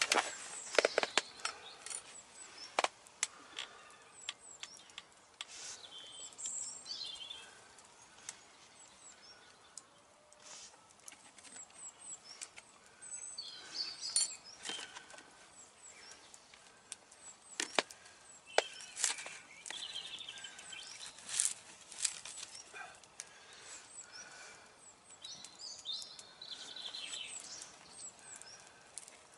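Birds chirping now and then, over a faint outdoor background with scattered sharp clicks and taps from a crackling campfire and from a fork and plastic plate being handled.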